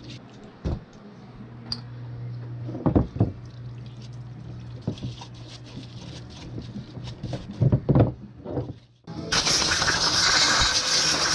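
Motorcycle brake caliper parts being handled with a few knocks and clunks, then a loud, steady spraying hiss starting about nine seconds in as the calipers are washed out.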